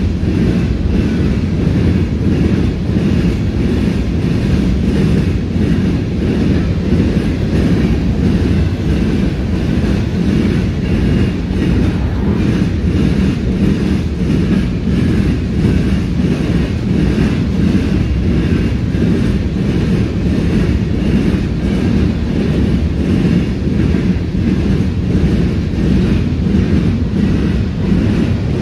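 Freight train of covered hopper cars rolling past: a steady, loud rumble of steel wheels on rail, unchanged throughout.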